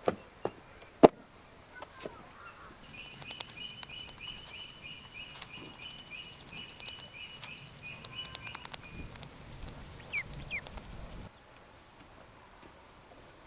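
A few sharp knocks, the loudest about a second in, then a bird's rapidly repeated chirping call, about three or four chirps a second, for several seconds over low rustling and handling noise. Two short rising chirps follow near the end before the sound drops off suddenly.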